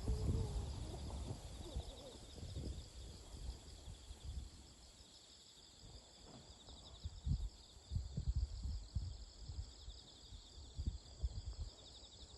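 Insects chirping steadily in fast, high pulsing trills, over irregular low thumps and rumble.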